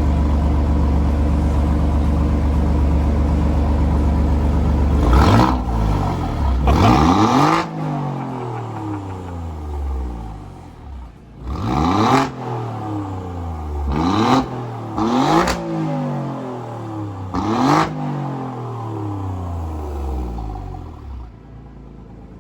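Alfa Romeo Giulia Quadrifoglio's twin-turbo V6 idling steadily, then revved hard six times in quick blips, each rising sharply and dropping back to idle, in race mode.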